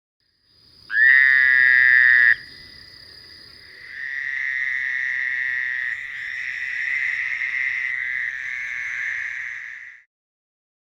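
Fowler's toads calling: a loud nasal buzz about a second and a half long, followed by softer, longer buzzing calls at the same pitch that stop about a second before the end.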